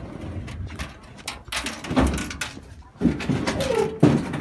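Several clunks and knocks from a steel-tube ramp being moved and slid on the truck, coming about a second apart, with a short wavering whine shortly before the last knock.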